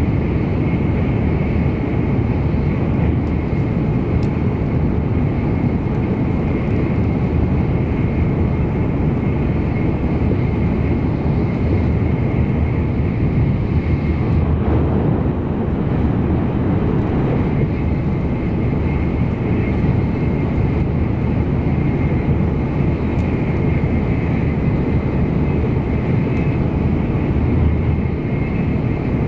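Interior running noise of an N700 series Shinkansen train at high speed: a steady, dense rumble of wheels on rail and air rushing past the car body, heard inside the passenger cabin, with a faint steady high whine over it.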